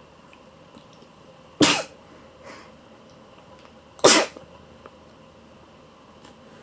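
Two short, sharp sneezes about two and a half seconds apart.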